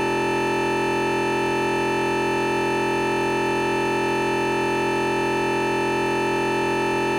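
Continuous, unchanging electronic beep of several steady tones at once, standing in for the recording's normal sound. It is an audio glitch that the uploader puts down to an emergency alert text arriving during the recording.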